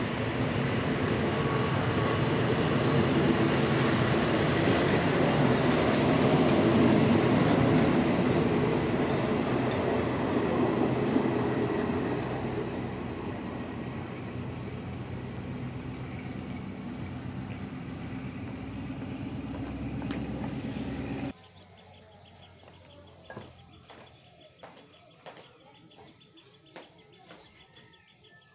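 Passenger train carriages rolling out past the platform, steel wheels running on the rails. The sound grows to its loudest about seven seconds in, then fades as the train pulls away. It stops abruptly about 21 seconds in, leaving only faint platform ambience with scattered small clicks.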